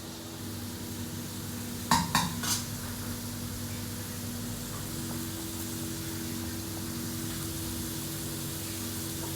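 Commercial kitchen: a steady machinery hum, with three quick ringing clanks of metal cookware about two seconds in.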